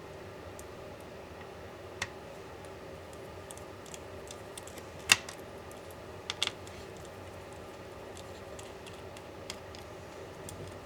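Sparse, sharp clicks and taps of small tools and parts being handled while a MacBook Pro laptop is taken apart: one loud click about halfway through, a quick double click just after, and a few fainter ones, over a steady low hum.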